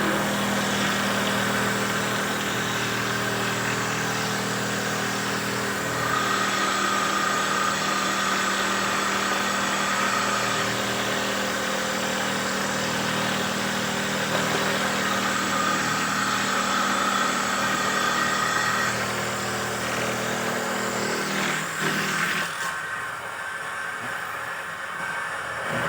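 Motor of a handmade wooden dowel-making machine running steadily. A higher whine comes in twice for a few seconds each. The motor stops about 22 seconds in.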